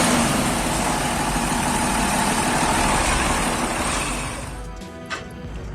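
Heavy truck's diesel engine running steadily, fading away about four and a half seconds in, with a few sharp clicks near the end.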